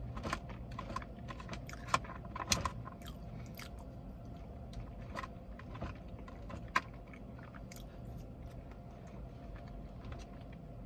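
Close-up chewing and mouth sounds of someone eating pancakes and fries, with scattered sharp clicks over a low steady hum.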